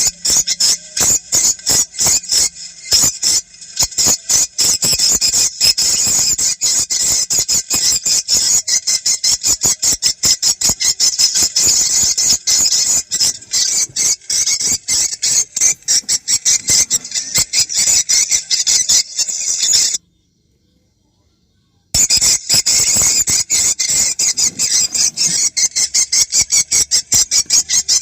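Recorded swiftlet lure call: rapid, high-pitched chirping and twittering of edible-nest swiftlets, played as a loop to attract birds to a prospective nesting site. It cuts out for about two seconds near the end, then starts again.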